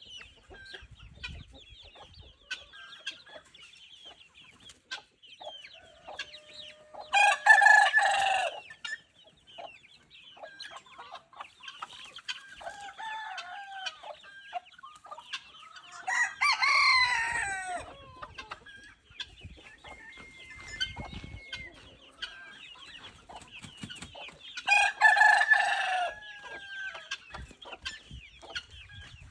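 Roosters crowing three times, each crow lasting a second or two and spaced roughly eight to nine seconds apart, over the continuous clucking and chirping of a poultry flock.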